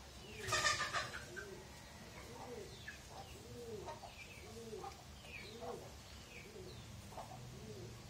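Birds calling in the background: a run of short, low, arched coo-like calls repeated every half-second or so, with fainter higher chirps between them. A brief scrape or rustle is heard about half a second in.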